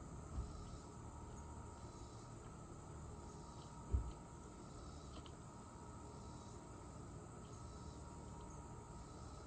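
Steady high-pitched insect chorus, with a few faint short chirps. Two low thumps, the louder about four seconds in.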